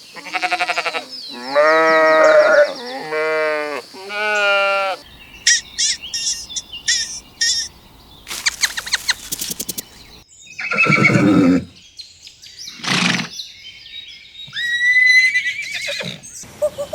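A run of farm animal calls from different animals, cut one after another. The first five seconds hold long drawn-out calls, followed by high short chirps and then several lower calls.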